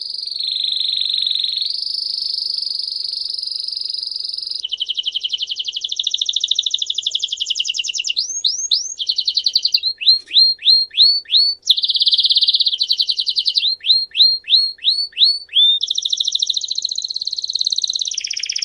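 A songbird singing a loud, continuous song of long rapid trills, each held for a second or several at a steady pitch. Twice, about ten and fourteen seconds in, the trills break into runs of quick downward-sweeping chirps.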